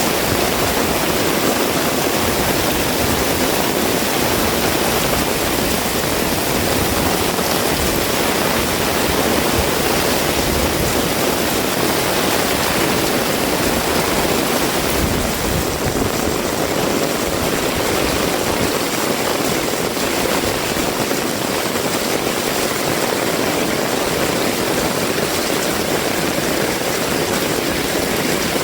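Heavy rain pouring down steadily, a dense, even hiss of rainfall with no breaks.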